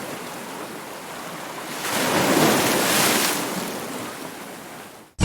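Ocean surf: a wave swells about two seconds in, then washes out and fades, cutting off just before the end.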